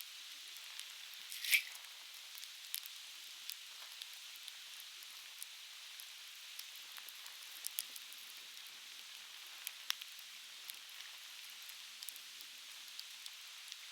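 Conifer firewood crackling in a campfire, with scattered sharp pops (the loudest about a second and a half in) over the steady rush of a stream.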